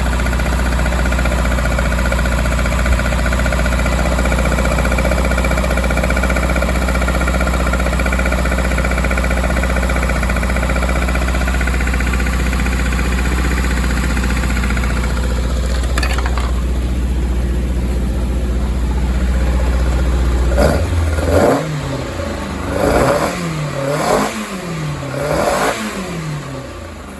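Triumph Spitfire four-cylinder race engine, newly refurbished and on its first run, idling steadily and evenly for about twenty seconds. Near the end it is blipped up and back down about four times in quick succession.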